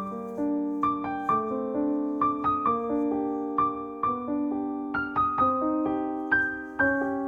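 Background music: a slow, gentle solo piano melody, single notes and soft chords struck every half second or so and left to ring.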